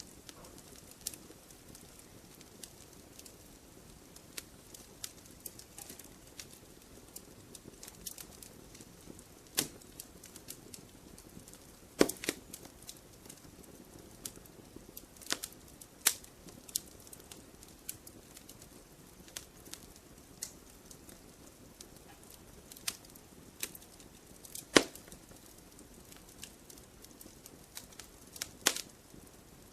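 Campfire wood crackling: irregular sharp pops and snaps, a few much louder than the rest, over a low steady rush of the burning fire.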